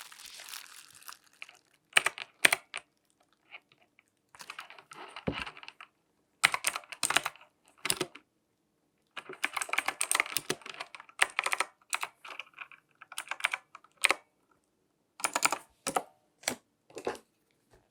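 Quick taps and clicks from hands handling objects up close, coming in bursts of about a second with short pauses between, and two sharp, louder taps about two seconds in.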